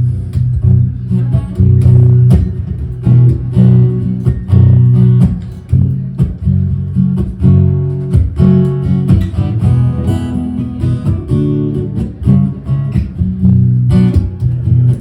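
Instrumental music: strummed acoustic guitar playing a steady rhythm over a strong low bass, with no singing.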